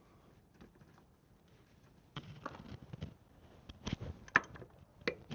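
Scattered clicks and metal knocks of hand tools and parts being handled at the wheel hub, starting about two seconds in, with one sharp knock a little after the middle.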